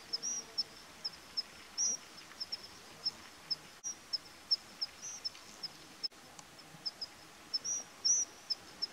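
A small bird calling over and over with short, high chirps, a couple each second, some notes rising and falling, over a faint outdoor hiss. The sound cuts out for an instant twice.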